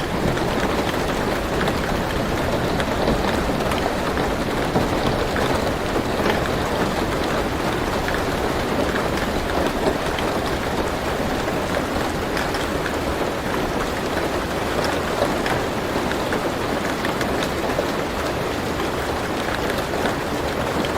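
Steady rain falling on a car roof, heard from inside the car, with scattered sharper drop hits over an even hiss.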